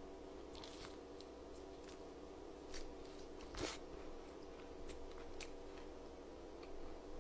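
Faint crunching and chewing of Kyochon Honey Combo fried chicken with the mouth closed: scattered soft crisp crackles, the loudest about three and a half seconds in, over a steady low hum.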